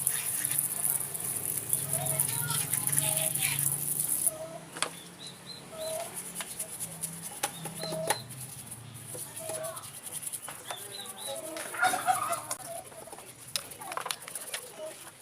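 Chickens clucking again and again, with a steady high hiss during the first four seconds and a few sharp knocks.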